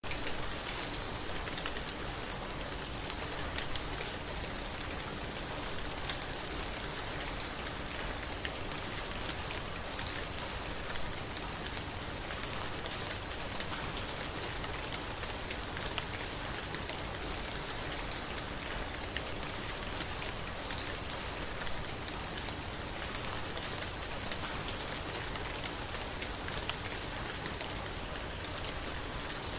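Heavy rain falling steadily on a wet street, a dense even hiss with scattered sharper drop ticks. A faint steady low hum lies underneath.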